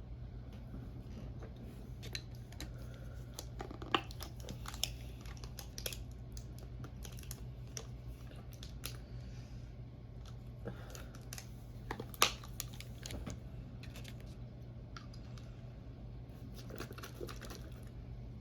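Close-miked eating sounds: many small clicks and crackles of chewing, with two sharper clicks about four and twelve seconds in, over a steady low hum.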